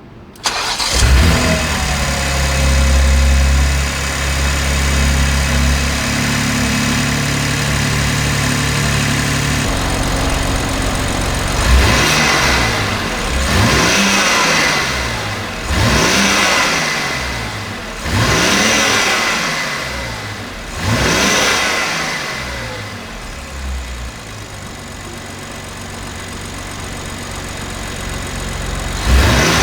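BMW X4 M Competition's twin-turbo 3.0-litre inline-six, breathing through the factory airbox and filters and exhausting through an Akrapovič system. It idles at a raised speed that steps down twice, then is blipped five times in quick succession, each rev rising and falling back. It settles back to idle, with one more blip at the very end.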